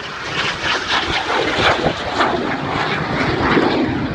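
Jet roar of Aermacchi MB-339 trainers flying past, building steadily and peaking near the end.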